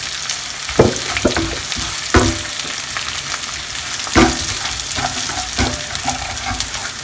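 Green chillies, ginger and curry leaves sizzling in hot oil in a non-stick wok, with a wooden spatula stirring and scraping the pan in several irregular strokes. The aromatics are being sautéed just until they wilt.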